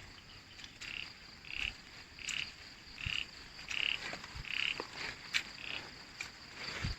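A frog calling in a run of about eight short croaks, a little under one a second, over a steady high insect drone.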